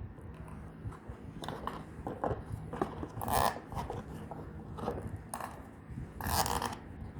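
Plastic cable tie being pulled tight through its ratcheting head in short zipping strokes, two longer pulls about halfway and near the end, among small clicks of a hard plastic lunch box being handled.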